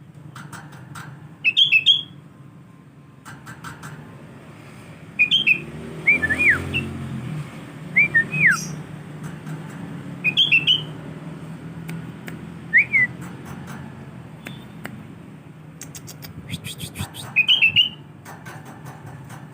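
Young male sooty-headed bulbul calling: short chirpy notes in little groups every couple of seconds, a few of them whistled notes that slide steeply downward, with faint clicking in between.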